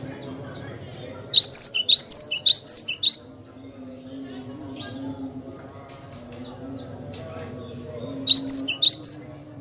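Cinereous tit (glatik batu) singing: a fast run of about eight sharp, high notes starting about a second and a half in, and a shorter run of about five near the end.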